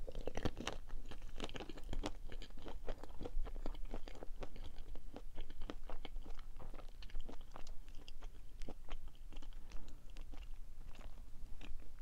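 Close-up chewing of a Summerbird Cream Kiss, a white-chocolate-coated marshmallow sweet: a steady run of small, irregular crunches and mouth clicks as it is bitten and chewed.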